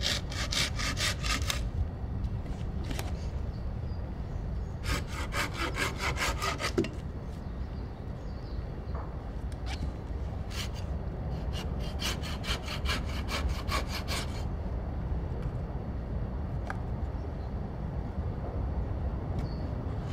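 Hand saw cutting wood in three bouts of quick, even back-and-forth strokes, with pauses between them.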